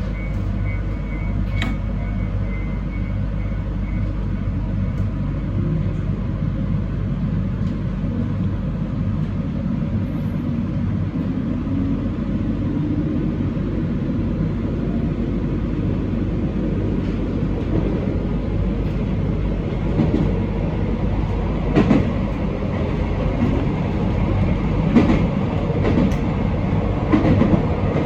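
Train running, heard from inside the car: a steady low rumble with a faint tone rising in pitch through the middle, then wheels clacking over rail joints several times in the second half as the sound grows slightly louder.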